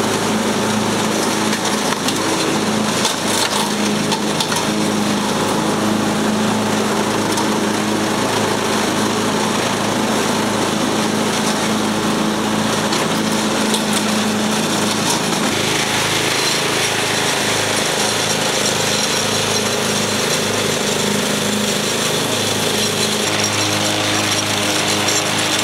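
Craftsman lawn mower engine running steadily while mowing. The note is a rough, even hum, and about fifteen seconds in the sound shifts, with more hiss coming in on top.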